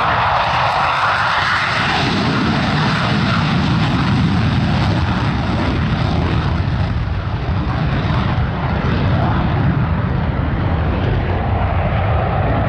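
Aircraft engine noise from an airplane flying past, loud and steady, with its pitch sweeping upward over the first two seconds and shifting again later.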